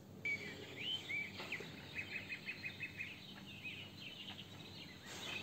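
Small birds chirping, faintly, in a series of short chirps with a quick run of repeated notes in the middle, over a low hum of outdoor background noise.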